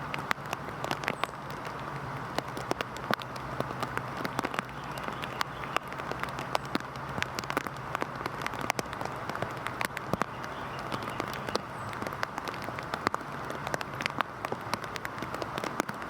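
Heavy rain falling: a steady hiss thick with sharp ticks of individual drops striking.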